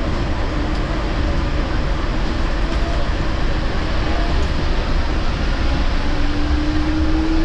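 Yurikamome Line rubber-tyred automated guideway train running: a steady rumble of tyres and car body. About six seconds in, a traction-motor whine starts and rises in pitch.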